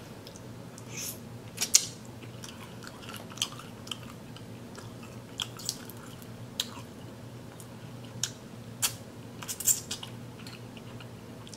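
Close-miked chewing and mouth sounds of a person eating seafood-boil shrimp, with irregular sharp clicks and smacks every second or so.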